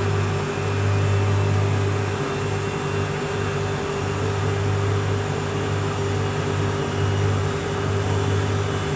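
Washing machine in its spin cycle, the drum turning at speed: a steady low motor hum with a constant whine above it.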